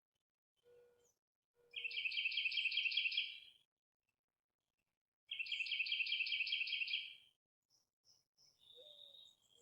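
Red-headed woodpecker giving two rapid, rattling churr calls, each about two seconds long, a few seconds apart.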